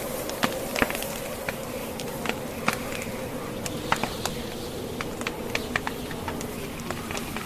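Wood fire crackling: irregular sharp pops and snaps of burning logs, a few each second, over a steady rushing background of wind and blizzard. The loudest snaps come about a second in and about four seconds in.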